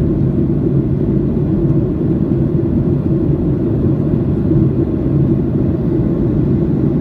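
Boeing 737-800 in flight, heard inside the cabin: a steady low rumble of engine and airflow noise, with a faint hum in it.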